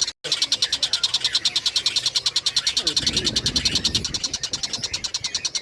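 Kingfisher (tengkek buto) calling in a fast, even chatter of short high notes, many a second, with a brief gap just after the start. A lower sweeping sound joins in around the middle.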